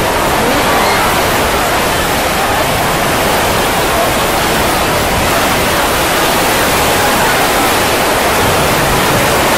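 Heavy storm rain and wind beating on a large fabric tent, heard from inside as a loud, steady rushing noise.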